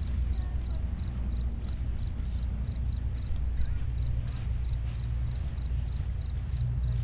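Low, steady wash of gentle ocean surf, with an insect chirping in an even pulse of about three short chirps a second.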